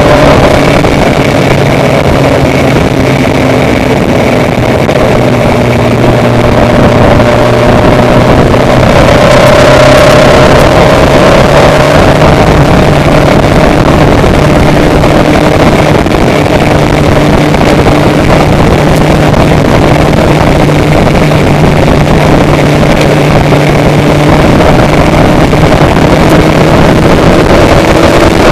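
An engine running steadily and loud, with a constant low hum and a brief swell about ten seconds in.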